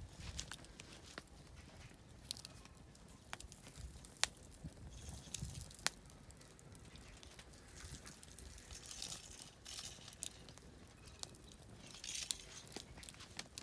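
Oak firewood burning in a campfire, crackling with scattered sharp pops, the strongest about four and six seconds in.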